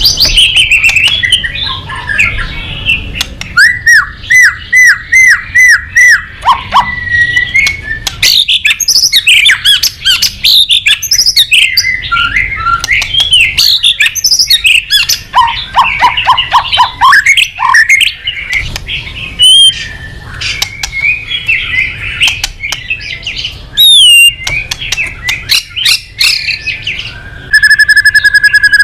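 White-rumped shama (murai batu) singing a loud, continuous, varied song of whistles, chirps and squawky notes, with runs of quickly repeated notes. Near the end it holds one long, steady whistle.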